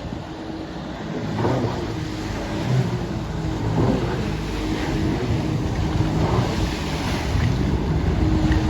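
Motorboat under way: a continuous rush of water and wind on the microphone, with a low engine hum underneath.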